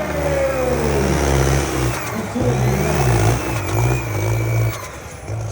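Sonalika tractor's diesel engine revving hard, its pitch wavering up and down, then easing off a little before the end.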